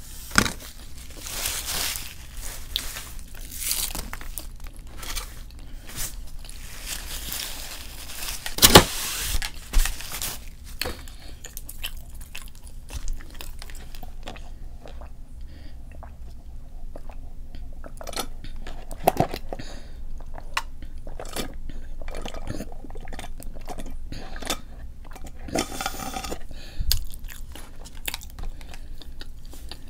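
Close-miked eating: a person biting and chewing crunchy food. Dense crunching for the first third, with one sharp loud crack about nine seconds in, then softer, sparser chewing.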